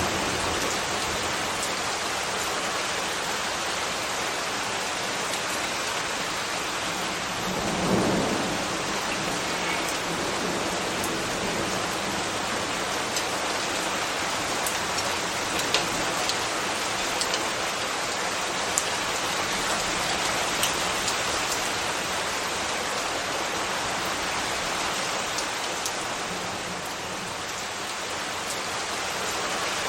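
Steady rain falling, an even hiss with scattered sharp drop ticks. About eight seconds in there is a brief low rumble.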